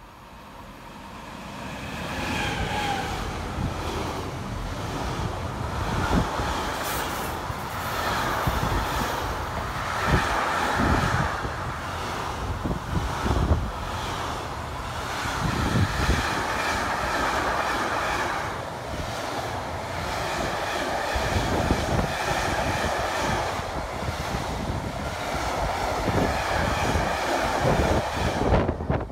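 A train passes along the track, building up over the first two seconds and then running on loudly and steadily, with repeated short knocks of the wheels over the rail joints.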